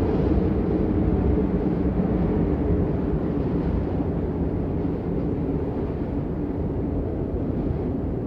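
Steady rain noise, dull and muffled, deep in tone with little hiss, holding even throughout.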